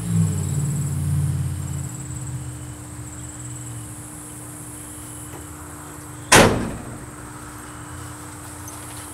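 A single loud slam about six seconds in, with a short ringing tail, like a vehicle door or hood shutting. Beforehand a low hum fades away over the first two seconds, and crickets chirp steadily throughout.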